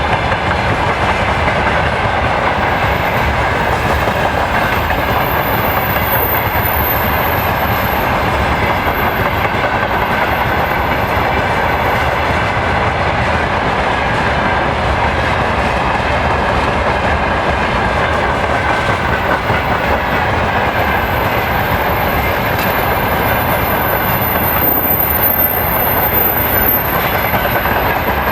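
Freight train rolling past steadily, its wheels running over the rails in a continuous loud rumble. A faint, thin, high-pitched whine comes and goes twice.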